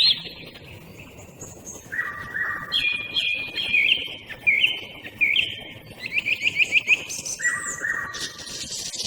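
A song thrush and a common nightingale singing at the same time: a run of clear whistled phrases, some repeated two or three times, and a fast trill about six seconds in, with a short burst of noisy, rasping sound near the end.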